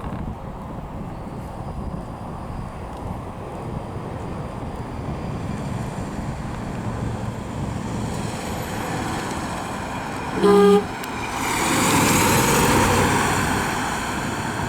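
1949 Ford Custom sedan running as it is driven, with one short blast of its horn about ten and a half seconds in. After the honk the car grows louder for a couple of seconds as it goes by.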